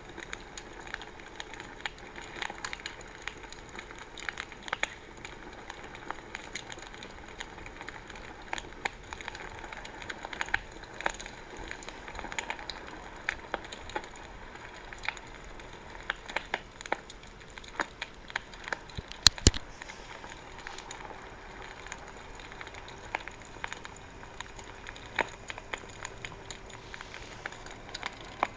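Wood fire crackling steadily, with irregular small pops and snaps over a soft hiss, and one louder pop about two-thirds of the way through.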